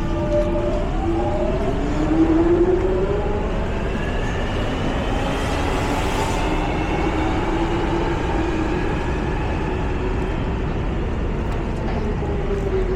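Electric underground train at the platform: a steady rumble with a motor whine that slides up and down in pitch, and a brief hiss about six seconds in.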